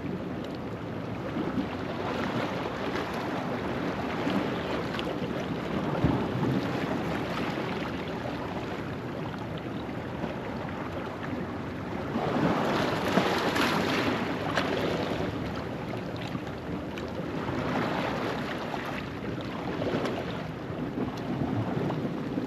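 Ocean waves washing over a rocky shoreline at low tide, a continuous wash that swells into two louder surges, one a little past halfway and another near the end.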